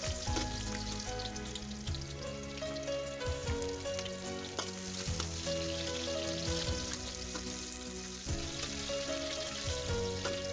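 Oil sizzling and crackling steadily in a wok as chopped shallots, garlic and sliced red chillies fry, stirred now and then with a steel spatula. Background music plays underneath.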